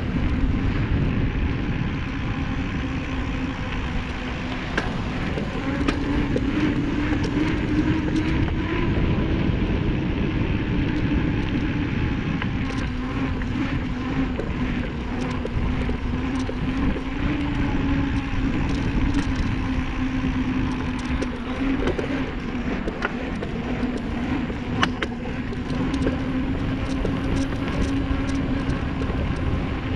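Bicycle ride heard from the rider's camera: steady rumble of wind and road noise with a wavering hum throughout, and scattered small clicks and rattles.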